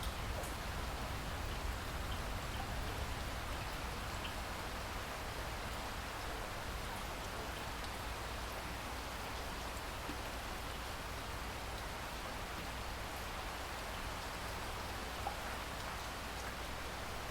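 Steady rain falling, an even hiss with a low rumble beneath and occasional faint individual drop ticks.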